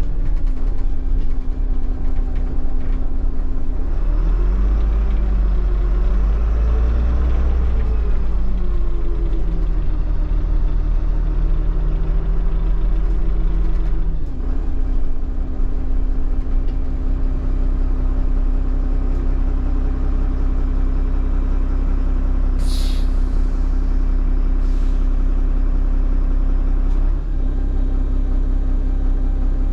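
A Solaris Urbino 15 city bus engine running under way, heard inside the cabin. Its pitch swells up and back down a few seconds in, drops about halfway through, then holds steady. Two short air hisses come near the end.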